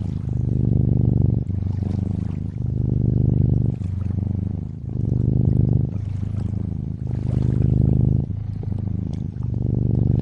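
Domestic cat purring close up, a fine rapid rumble that swells and eases with each breath, about every second. Faint trickling water runs underneath.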